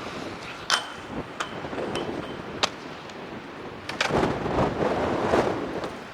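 Aggressive inline skates knocking against a rail, several sharp knocks in the first half, some with a short ringing, then a louder, rough stretch of grinding about four seconds in, with wind buffeting the microphone.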